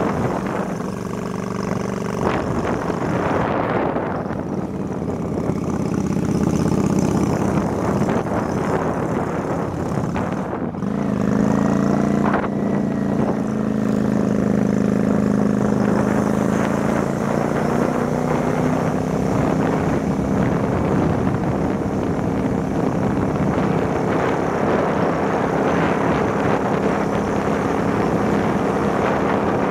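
Motorbike engine running while riding, with wind buffeting the microphone. The engine slows briefly about ten seconds in, then speeds up and holds a steady note.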